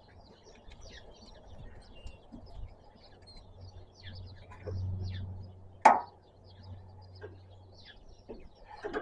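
Quiet hand work on a tractor's fuel lines, with a single sharp knock about six seconds in and faint bird chirps throughout.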